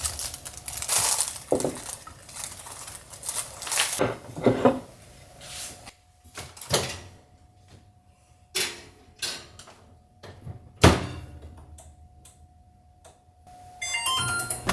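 Scattered knocks and clatters of hard objects being handled and set down, a dozen or so separate hits with quiet gaps between them, and a faint steady hum in the middle.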